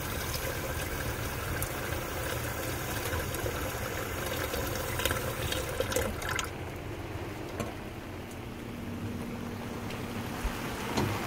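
Steady hiss of falling water, rain and the RV's outdoor shower spray, with a few light knocks. About six and a half seconds in the hiss loses its upper brightness and turns duller.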